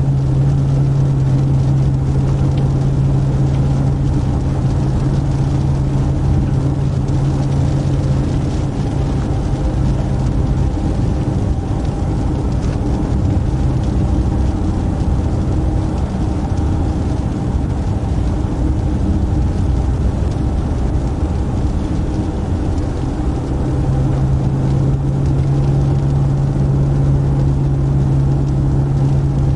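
Steady engine drone and road noise heard inside a police patrol car's cabin, with a low hum that fades for a while in the middle and comes back near the end.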